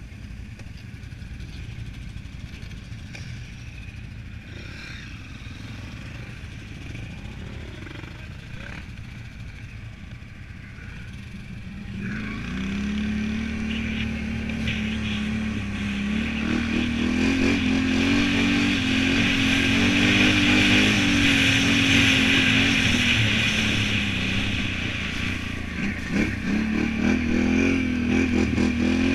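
Can-Am Renegade 1000 ATV's V-twin engine running low and quiet. About twelve seconds in it revs up and pulls hard under throttle, is loudest midway, eases briefly, then picks up again near the end.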